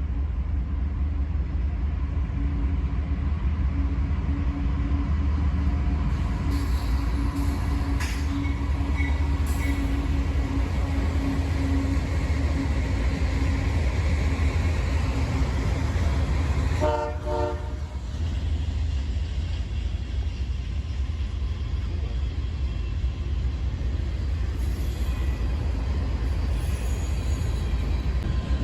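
CSX diesel locomotive running, a steady low engine rumble with the rolling noise of the train. About seventeen seconds in comes one short horn blast lasting about a second.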